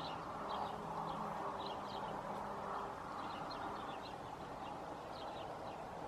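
Small birds chirping: short, high calls scattered throughout, over a faint steady low hum.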